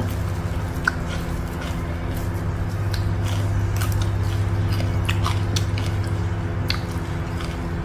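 Close-miked chewing of a mouthful of food, with scattered small clicks, over a steady low hum.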